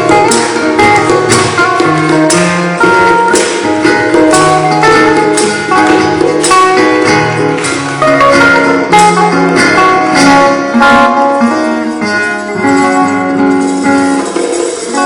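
Instrumental acoustic guitar music: strummed chords with sharp percussive strokes under plucked melody notes.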